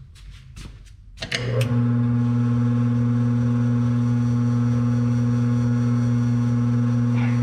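An electric bench tool's motor switches on about a second in and runs with a steady, even hum while small drilled holes are deburred. It shuts off near the end.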